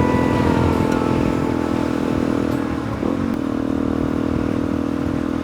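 Suzuki DR-Z400E's single-cylinder four-stroke engine running steadily while the bike is ridden at a constant pace, with a slight drop in engine note about halfway through and a few light clicks and clatter over it.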